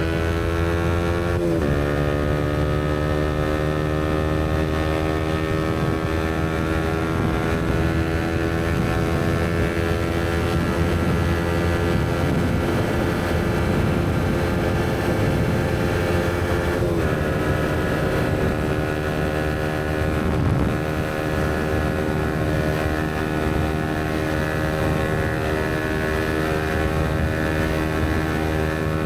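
Yamaha MT-125's single-cylinder 125cc four-stroke engine running through an aftermarket Black Widow exhaust while riding. Engine pitch climbs slowly under steady acceleration, dropping sharply at upshifts about a second and a half in and again about 17 seconds in.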